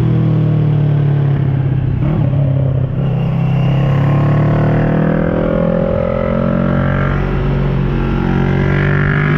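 2010 Kawasaki ER6N's parallel-twin engine running through an SC Project carbon exhaust under way. There is a brief drop in level about three seconds in, then the engine note rises in pitch as it pulls, and it rises again near the end.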